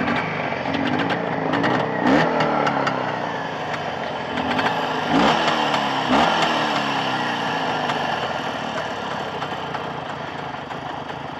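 Jawa 634 two-stroke twin motorcycle engine running just after restarting from a stall, its throttle blipped three times: quick rises and falls in revs about 2, 5 and 6 seconds in, then settling back to a steady idle. The engine is freshly assembled and still being run in.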